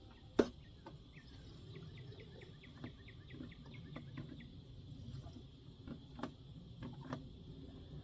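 Light clicks and knocks of handling as the chainsaw is readied for refuelling with two-stroke mix, one sharper knock about half a second in. A run of quick, evenly spaced high chirps sounds in the background from about one second in until about four seconds.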